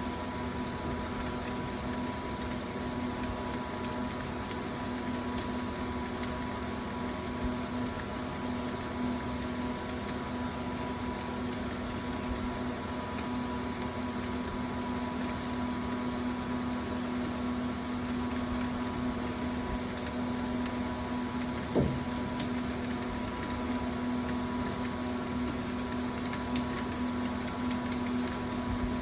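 Steady background hum with a few held tones, one low tone the strongest, and a single brief click about twenty-two seconds in.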